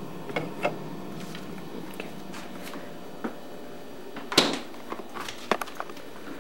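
A dozen or so scattered clicks and knocks in a small room over a steady low hum. The loudest comes about four seconds in.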